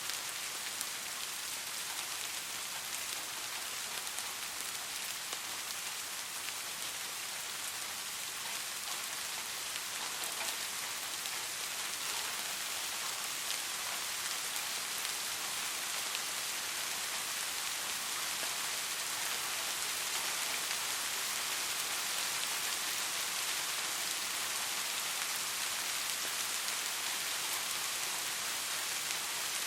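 Steady rain falling, a dense even hiss with fine patter of individual drops, no thunder.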